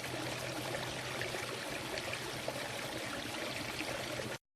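Water from a pondless waterfall splashing and running steadily over rocks. It stops abruptly near the end.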